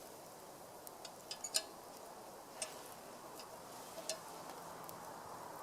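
A handful of light, scattered clicks and taps from camp cookware being handled, over a faint steady hiss.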